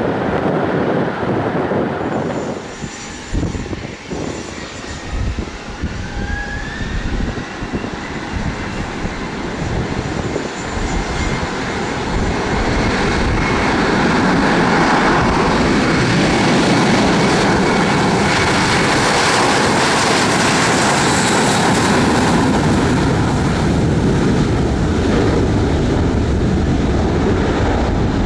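Airliner engines growing louder and then holding a steady, loud roar as the plane passes close by. A faint rising whine comes in after about five seconds. Wind gusts on the microphone in the first few seconds.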